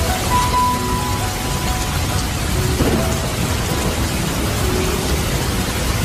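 Steady rain falling on dense trees, an even hiss with a deep low rumble underneath.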